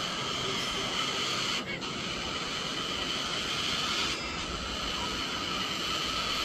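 Birds calling in a steady, continuous chorus.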